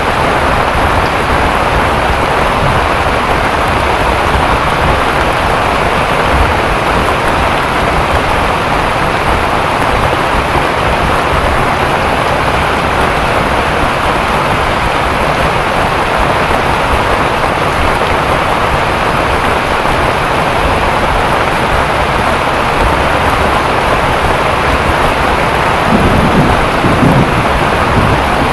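Heavy rain falling steadily and loudly, with a brief louder low sound near the end.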